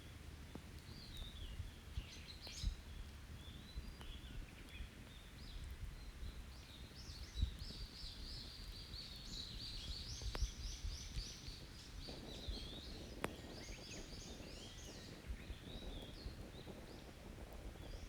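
Several wild birds singing and calling over one another, including a fast trill of repeated notes about halfway through. A wood campfire crackles underneath with a few sharp isolated pops.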